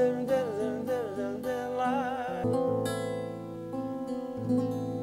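Acoustic guitar and a man's wordless sung melody at the close of a song; the voice stops about halfway, and the final guitar chords are strummed and left to ring, fading out.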